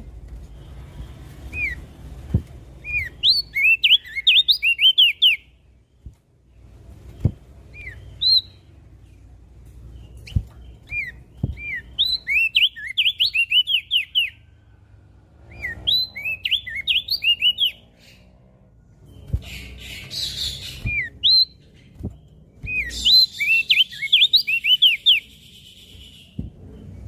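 Opior jambul, a white-eye, singing in repeated bursts of rapid, high, sweeping chirps. Each burst lasts one to three seconds, with short pauses between them. A few faint knocks sound under the song.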